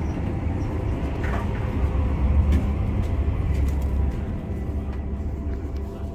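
Steady low rumble inside the carriage of a Deutsche Bahn ICE high-speed train, with a faint steady hum over it.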